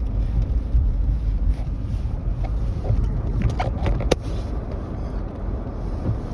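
Steady low rumble of road noise inside a car, with a few light clicks and one sharper tap about four seconds in.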